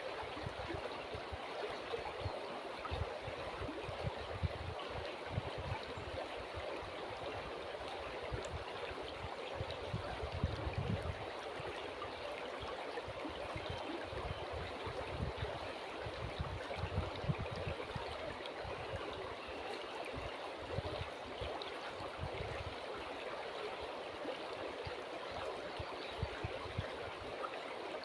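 River water flowing steadily, a continuous rushing and gurgling, with irregular low rumbles of wind buffeting the microphone.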